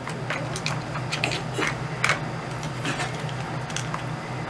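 A dog working a plastic treat puzzle: irregular clicks and knocks of the blocks and pieces being pushed and moved as she opens the compartments, over a steady low hum.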